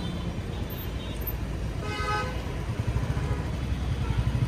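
Royal Enfield Classic 350's single-cylinder engine running with a low, pulsing thump at walking pace in traffic. A vehicle horn toots briefly about two seconds in.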